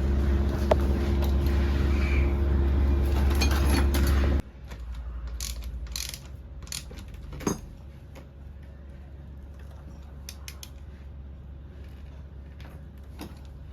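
A steady low hum that cuts off suddenly about four seconds in, then scattered metallic clicks and ticks of a wrench turning a motorcycle's oil drain plug back in.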